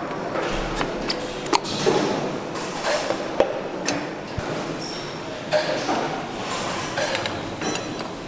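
Engine assembly hall: a steady background hum with scattered metallic clinks, knocks and pings of parts and hand tools being handled.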